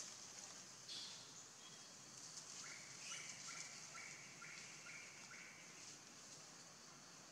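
Faint forest ambience: a steady high hiss, and about midway a bird giving a run of roughly eight short, even whistled notes that alternate between two pitches.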